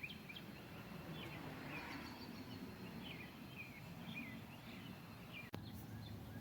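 Small birds chirping repeatedly over a steady outdoor background hum, with one sharp click about five and a half seconds in.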